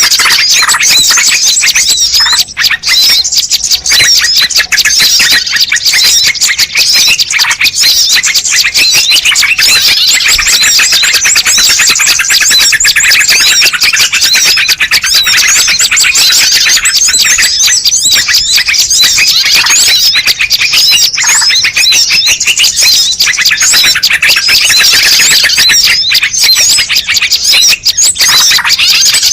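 Dense chorus of many small birds chirping and twittering over one another without a break, high and rapid: a bird-lure (pikat) call recording.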